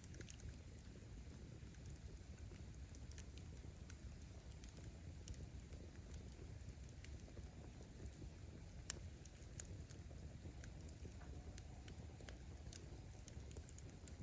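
Wood fire burning: a low, steady rumble of flame with scattered faint crackles and pops from the burning firewood, and one sharper pop about nine seconds in.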